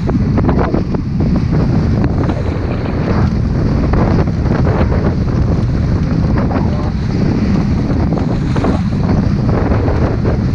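Heavy wind buffeting the microphone aboard a moving motorboat, over the boat's running motor and water rushing and slapping against the hull.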